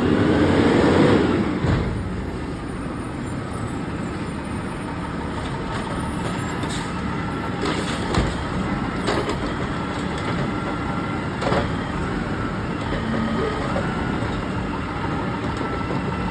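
Garbage truck engine revving up and easing off over the first two seconds, then running steadily with a thin high whine. A few sharp knocks and clunks sound through the middle.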